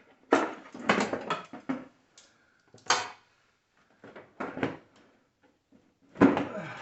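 Clattering and knocking of metal hardware and tools being handled, in four short spells with a louder clunk near the end.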